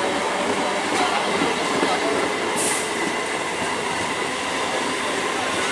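EMU local train's coaches rolling past, a steady rumble of wheels on the rails, with a brief high hiss about two and a half seconds in.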